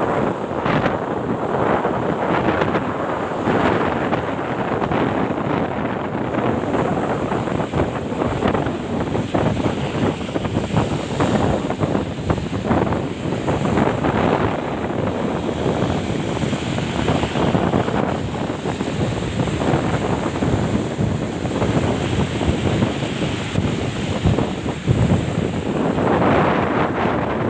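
Strong sea wind buffeting the microphone in continuous gusts, with waves breaking on a rock breakwater underneath.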